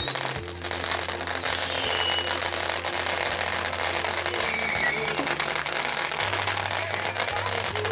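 Fireworks going off: a dense crackle with several short high whistles that fall slightly in pitch.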